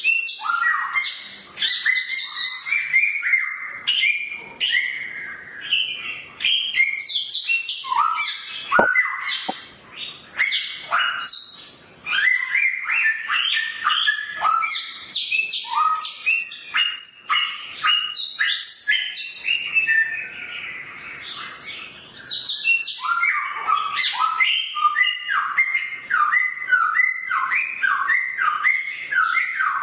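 Samyong songbird singing a sharp, fast song of chirps and quick up-and-down notes almost without pause. It eases off briefly about two-thirds of the way through, then goes on with a steady run of repeated notes.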